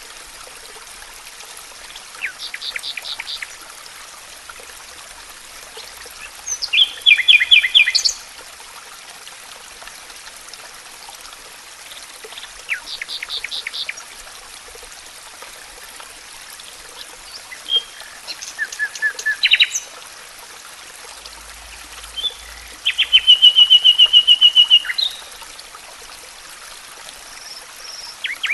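Songbirds singing a series of rapid trilled phrases a few seconds apart, the loudest near the start and as a long fast trill in the last third. Beneath them runs a steady rush like running water from a forest stream.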